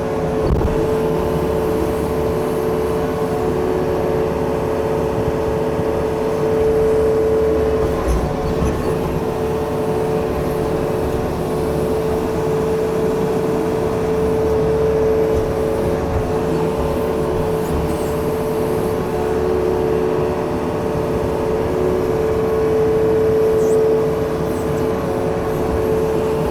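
Yanmar diesel engine running steadily on a digging machine, its note swelling slightly three times as it works.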